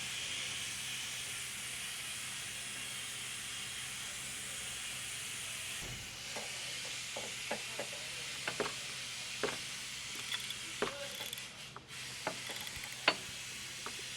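Steady low hiss of the shop background, with scattered light clicks and knocks of tools and parts being handled, one sharper knock near the end.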